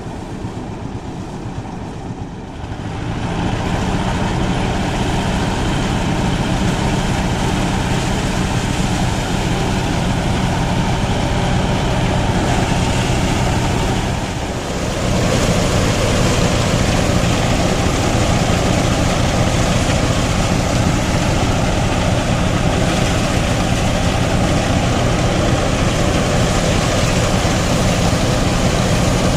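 Motor-driven rice threshing machine running steadily, getting louder about three seconds in, with a short dip about halfway through before it runs on.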